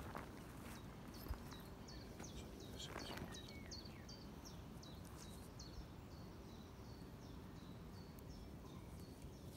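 A small bird singing a steady series of short, high, falling chirps, about two a second, over faint outdoor background noise. A few light knocks and a rustle come from aluminium tent poles being handled.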